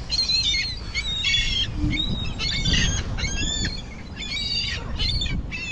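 A flock of gulls calling over one another: a quick run of short, high cries, one after another about every half second, as they crowd round thrown bread. A low rumble runs underneath.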